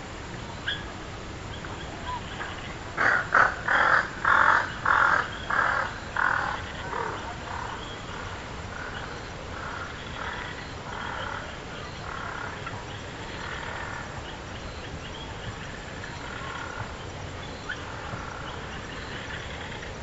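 A bird giving a run of harsh calls, about two a second, loudest at first and then growing steadily fainter, with softer scattered calls afterwards.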